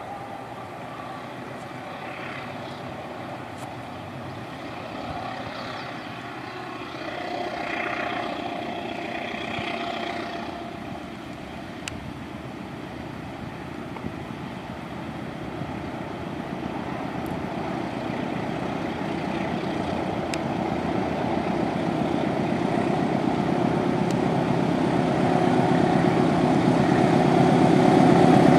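Approaching train: the steady rumble of a diesel-electric locomotive and its wheels grows gradually louder.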